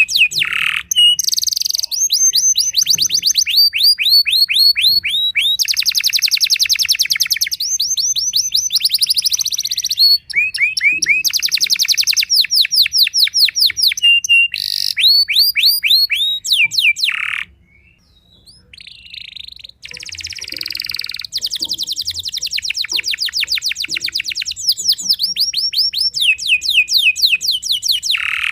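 Domestic canary singing a long, continuous song of fast trills, rows of quickly repeated downward-sweeping high notes changing from one phrase to the next, with a short pause a little past the middle.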